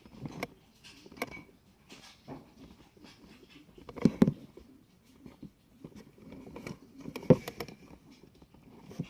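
A pet moving about: scattered light taps and clicks, with louder knocks about four seconds in and again past seven seconds.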